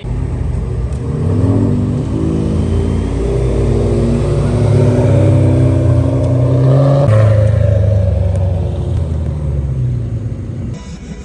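Car engine accelerating hard, its note rising, then dropping suddenly about seven seconds in as it shifts up, and fading near the end.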